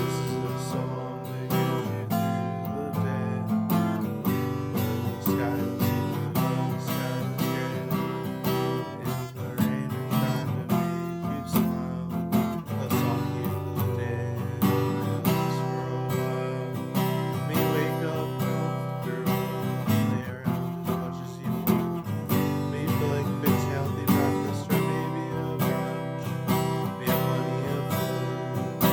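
Music: a song carried by a strummed acoustic guitar with a steady rhythm, starting suddenly.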